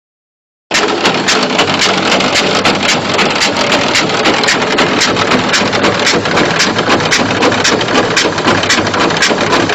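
Loud engine-driven machine running steadily, with a fast, even ticking through the noise. It cuts in suddenly under a second in.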